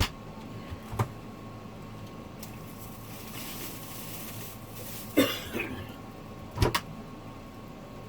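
Scattered household handling noises: a sharp click, a knock, a soft rustle, then two sharper clatters, as of food containers and dishes being moved and put away.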